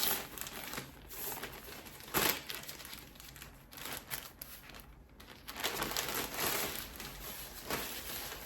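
Plastic packaging bags crinkling and rustling as items are handled and unwrapped, in irregular bursts with a sharp crackle a couple of seconds in and a longer stretch of rustling past the middle.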